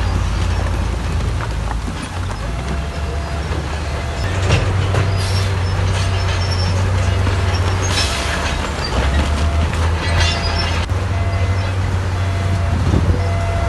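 Heavy diesel earthmoving machinery running under load, with scattered knocks and rattles of metal and stone. A faint, regularly repeating beep, typical of a reversing alarm, sounds from a couple of seconds in.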